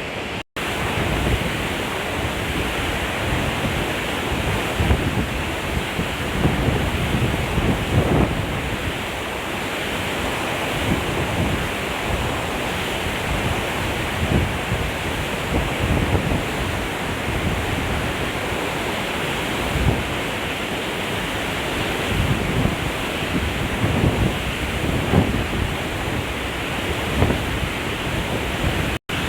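Steady rush of a waterfall's falling water, with irregular wind buffeting on the microphone.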